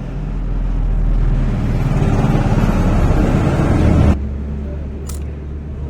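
Vehicle engine noise from road traffic, growing louder for about four seconds and then cutting off abruptly, leaving a steady low hum.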